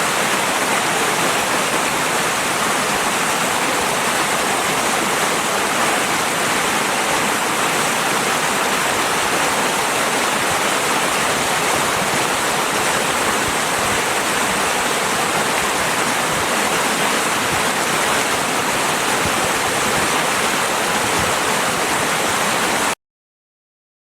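Steady rushing of flowing river water, which cuts off suddenly near the end into silence.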